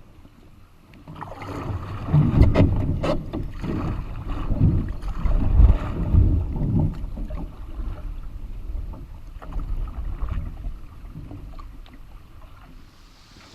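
A canoe on the water: irregular splashing and sloshing of water around the hull, with a few knocks. It is loudest in the first half and eases off after that.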